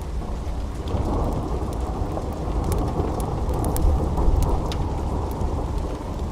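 Steady rain with a low rolling thunder rumble that swells about a second in and peaks partway through. Scattered sharp crackles from a fireplace sound over it.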